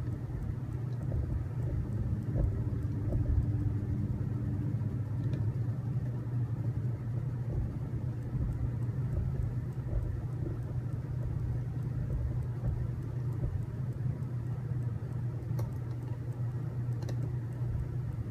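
Steady low hum of machinery in the room, with a few faint clicks.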